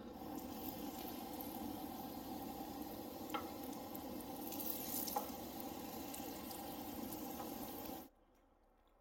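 Bannock dough sizzling as it fries in oil in a nonstick pan on a propane camp stove, with a couple of light clicks as a wooden spoon turns the pieces. The sizzling cuts off suddenly near the end.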